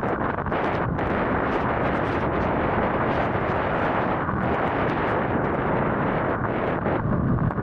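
Strong wind buffeting the camera microphone: a loud, steady rush with low gusty thumps.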